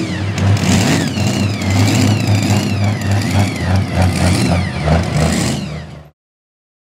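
Pro stock pulling tractor's turbocharged diesel engine running hard at high revs, surging in pulses, with a high whine rising and falling over the engine note. The sound cuts off abruptly about six seconds in.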